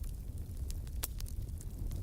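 Wood campfire crackling: scattered sharp pops and snaps, one louder pop about halfway through, over a low steady rumble.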